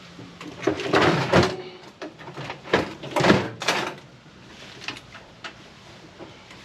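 Irregular knocks, scrapes and rattles of hand tools and metal parts being handled, busiest about a second in and again around three to four seconds in, then quieter.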